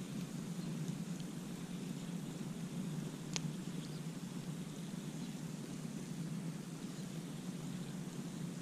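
Campfire burning with a steady low rumble and two sharp pops, the louder one about three and a half seconds in.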